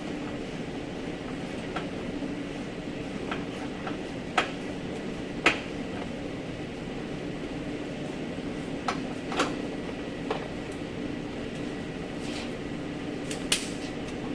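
Workshop sounds over a steady background hum: a few sharp metallic clinks and knocks at irregular intervals, from hand tools and loosened body parts being handled while a fender and bumper are taken off.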